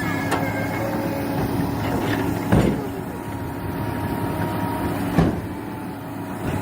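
A heavy vehicle or machine engine running steadily, with three sharp knocks, the loudest about two and a half seconds in.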